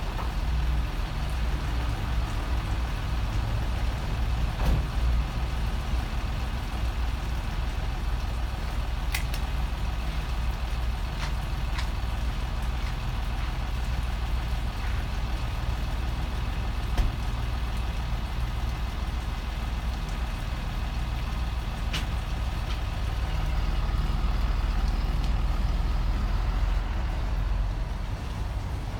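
Ram 4500's 6.7-litre Cummins diesel engine idling steadily, with a few faint clicks over it.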